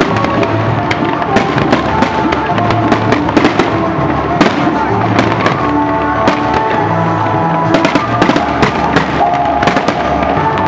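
Aerial fireworks display: shells bursting in quick succession, a steady run of sharp bangs and crackles. Music plays under the bangs.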